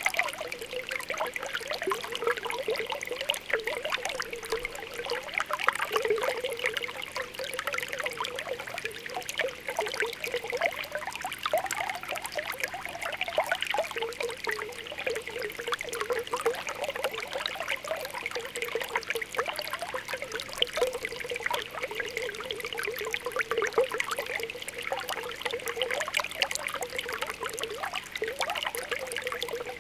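Spring water welling up from the ground, trickling steadily with a constant run of small bubbling pops.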